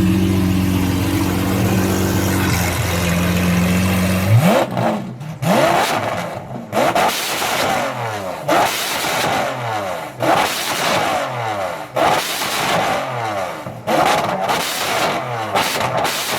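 Supercar engine idling steadily, then revved hard about four seconds in and blipped over and over, the pitch climbing and dropping roughly once a second.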